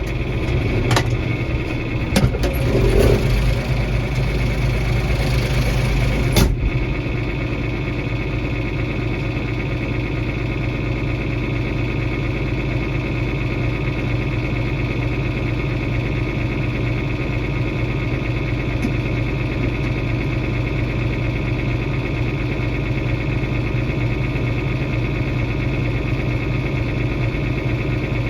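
Tractor engine running steadily. A few sharp clicks and a hiss in the first six seconds cut off suddenly, leaving the engine's even hum.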